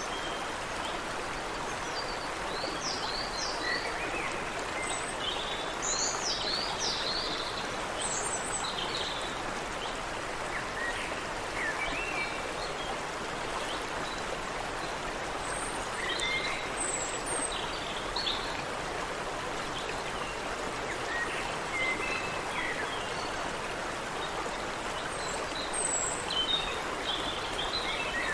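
A stream running steadily over stones, with several small songbirds chirping and trilling on and off throughout.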